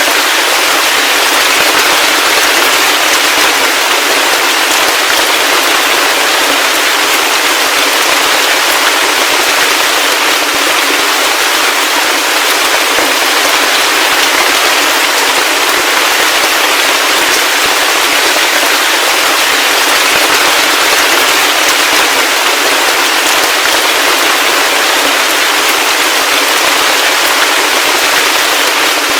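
Heavy rain falling steadily: a dense, crackling patter of countless drops that never lets up, with little bass and no thunder.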